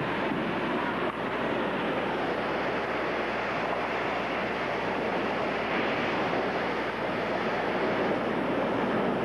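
Strong storm wind rushing steadily, the kind of wind that comes with a downburst.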